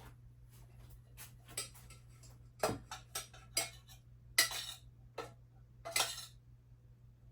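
Kitchenware clinking and knocking as it is handled and set down: irregular clicks and short clatters, the loudest about halfway through and again a second and a half later. A low steady hum runs underneath.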